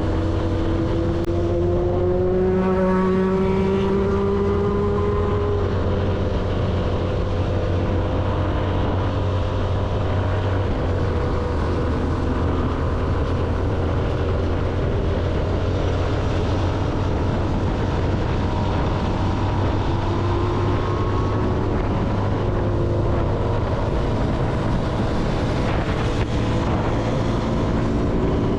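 CFMoto motorcycle engine running on the road under a steady rushing noise. Its pitch climbs over the first few seconds as the bike accelerates, then settles.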